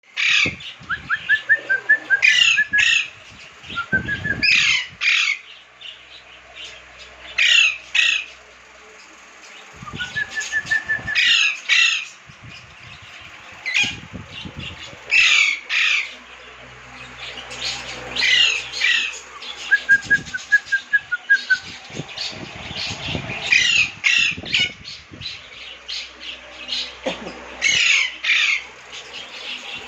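Lovebirds calling: clusters of loud, shrill squawks every couple of seconds, with a few short runs of rapid chirps in between.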